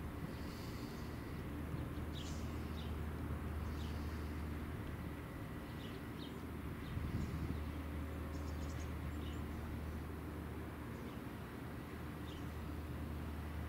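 Outdoor dawn ambience: scattered short, high bird chirps over a steady low rumble, with a brief louder low bump about halfway through.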